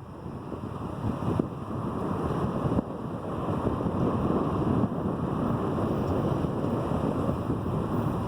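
Steady rumbling noise of the Amtrak Sunset Limited passenger train rolling into the station, with a few faint knocks, mixed with wind on the microphone.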